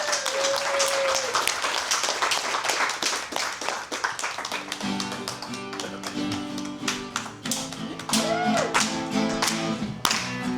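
Live audience applauding with a couple of short cheers, and about five seconds in an instrumental jam of sustained notes starts up under the clapping.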